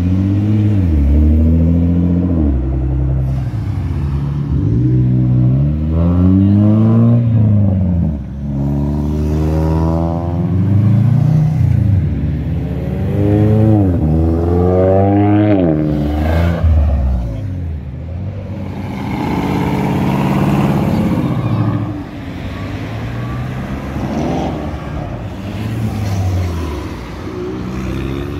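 Car engines revving and accelerating away one after another, their pitch climbing and dropping again and again through gear changes and throttle blips. Near the end this settles into steadier, quieter engine running.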